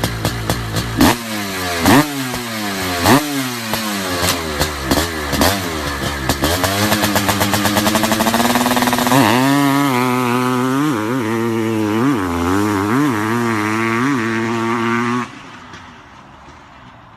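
Honda CR500's single-cylinder two-stroke engine being blipped about once a second, each rev falling away with crackling from the exhaust. It then climbs and is held at higher revs with small wavers, and the sound drops away suddenly about two seconds before the end.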